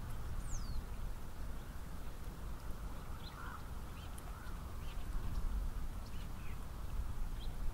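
Scattered short bird calls, including a quick falling whistle about half a second in, over a steady low background rumble.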